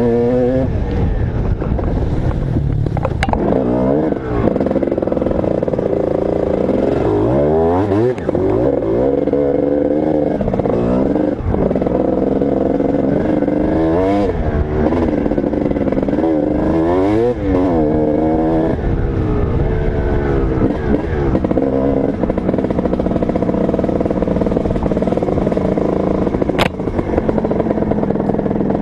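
Motocross dirt bike engine being ridden hard, the revs repeatedly climbing and dropping through the gears. Two sharp clicks cut through, about three seconds in and near the end.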